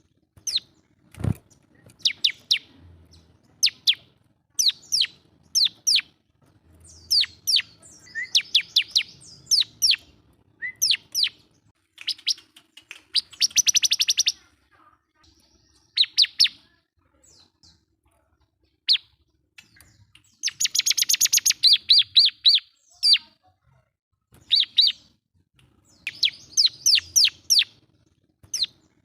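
Bar-winged prinia (ciblek) singing hard, calling to a rival: quick groups of sharp, high, downward-slurred notes, broken twice by a rapid buzzy trill. A single low thump about a second in.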